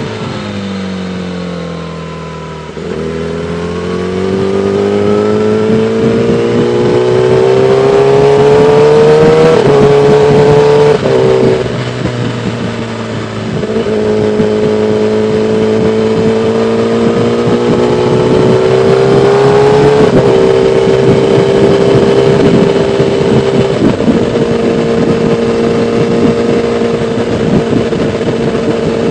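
Kawasaki ZX-10R inline-four motorcycle engine on the move: the revs sag for the first couple of seconds, then climb steadily under throttle, dip sharply about eleven seconds in, climb again, and settle to a steady cruise for the last part, with wind rushing over the microphone.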